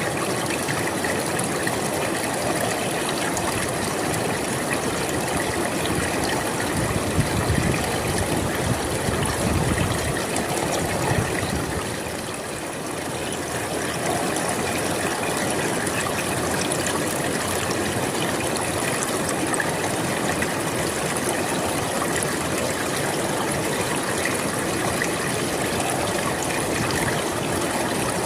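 A river flowing steadily, water rushing and splashing. It runs fuller in the low end for a few seconds around the first third and eases briefly just after.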